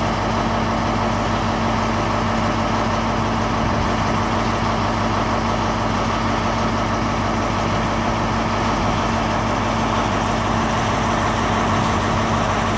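Class 33 diesel locomotive engine idling with a steady, constant hum.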